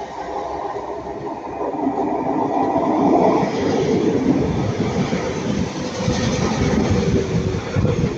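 Two coupled Class 323 electric multiple units passing by, a rumbling run with rapid wheel knocks. It grows louder from about a second in, is loudest through the middle and eases a little near the end.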